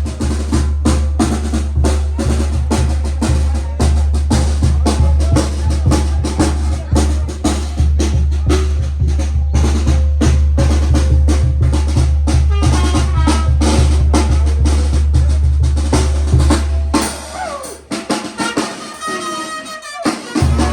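Music with fast, dense drumming on bass drum and snare, many strokes a second, over a steady low drone. About seventeen seconds in, the drumming stops and a melody instrument plays a few gliding notes.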